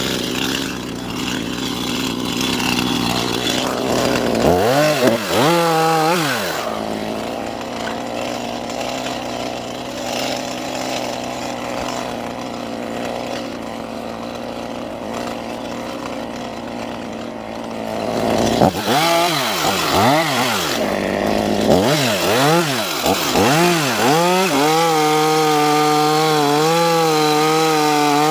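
Stihl two-stroke chainsaw idling, blipped up and down briefly about five seconds in and again several times near the end, then held at high revs with a slightly wavering pitch.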